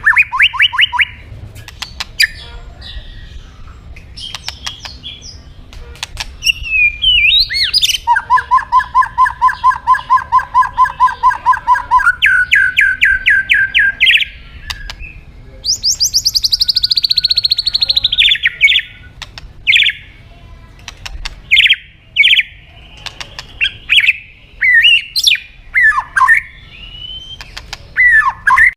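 White-rumped shama singing full, energetic song. It moves through fast runs of rapidly repeated notes, a long falling whistle about midway, and short sharp whistled phrases near the end.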